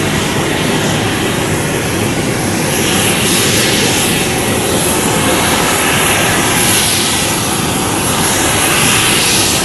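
Jet engines of an Airbus A320neo running near the runway: a steady, loud jet noise whose hiss shifts up and down in pitch as the aircraft moves.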